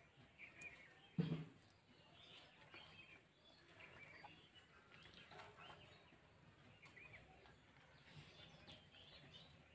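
Faint birds chirping in short, scattered calls, with one soft thump about a second in.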